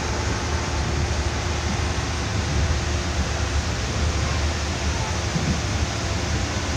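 Passenger train running along the track: a steady low rumble under an even rushing noise that does not change.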